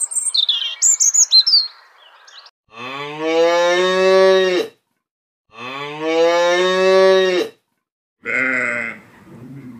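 A bird chirping briefly, then cattle mooing: two long moos of about two seconds each, the pitch rising slightly and then holding, and a shorter call near the end.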